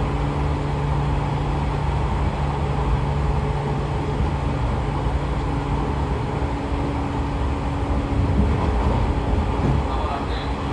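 Running sound heard inside a JR 113 series electric motor car with MT54 DC series-wound traction motors: a steady rumble of wheels on rail with a few steady motor and gear tones over it, at a roughly constant speed. Some of the tones fade out about four seconds in.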